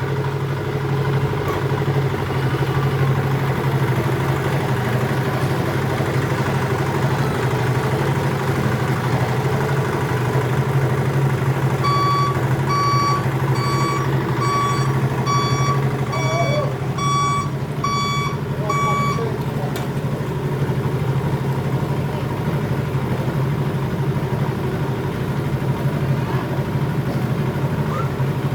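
Isuzu Elf dump truck's diesel engine running steadily. From about twelve seconds in, its reversing beeper sounds about nine times, a little under one beep a second.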